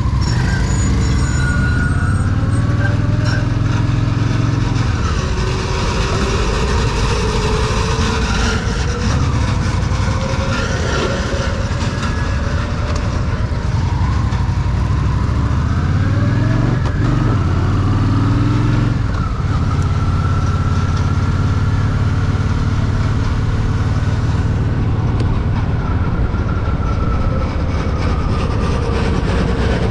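Honda Shadow VT750's V-twin engine running while riding, a steady low rumble whose pitch rises and falls a few times.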